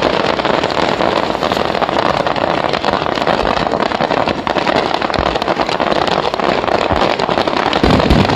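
Fireworks finale: a dense, continuous crackling of many shells bursting at once, with deep booms scattered through it and the heaviest boom about eight seconds in.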